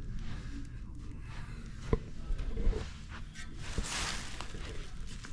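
Handling noises: a sharp knock about two seconds in and another near four seconds, with rustling between them.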